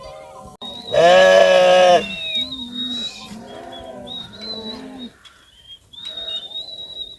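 Goats or sheep bleating: one long, loud bleat about a second in, followed by several shorter, quieter bleats. A thin, steady, high-pitched tone sounds on and off behind them.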